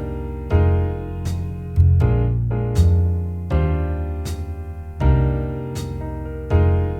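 Jazz ballad backing track at a slow 80 bpm: piano chords struck about once a second over a bass line that changes notes on the beat.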